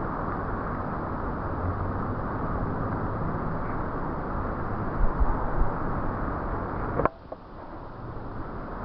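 Strong wind (the mistral) buffeting the microphone as a steady rumble, with heavier low thumps about five seconds in. The rumble cuts off abruptly with a click about seven seconds in, then returns more faintly.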